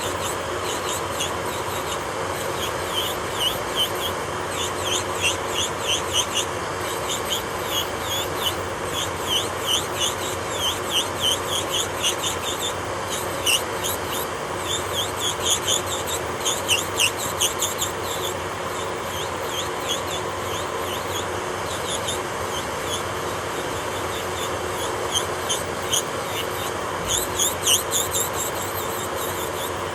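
Electric nail drill running steadily while its bit grinds against a gel nail in quick repeated passes, giving a series of short, high, scratchy strokes over the motor's hum.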